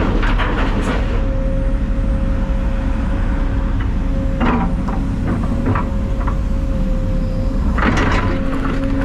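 Heavy diesel machinery running steadily, with bursts of clatter about four and a half seconds in and again near the end.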